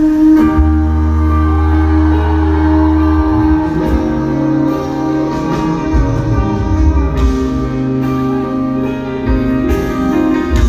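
Live pop-rock band music: guitar and bass playing a slow passage of held chords, with the bass changing notes every few seconds.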